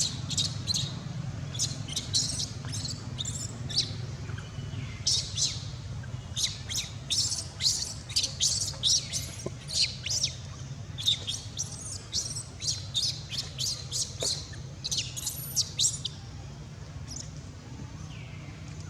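Baby monkey squeaking in rapid runs of short, high-pitched chirps, close and loud, thinning out near the end, over a steady low hum.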